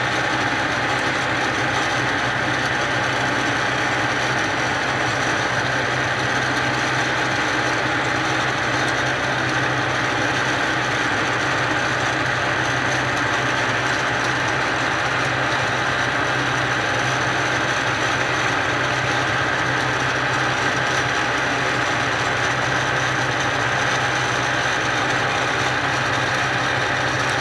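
Hurco CNC milling machine running and cutting, its spindle at 3,600 RPM: a steady, unchanging machine hum with a constant whine and hiss.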